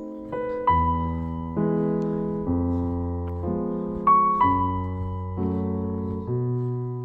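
Slow, gentle piano music: single melody notes and bass notes struck about once a second, each fading after it is played.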